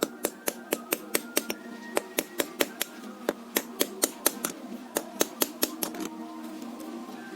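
A fast run of sharp taps or knocks, about four a second, that stops about six seconds in, over background music.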